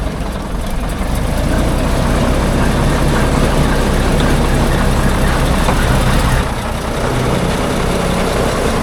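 Heavy logging truck's diesel engine running loud and steady, pulling through mud, easing off briefly a little after six seconds in.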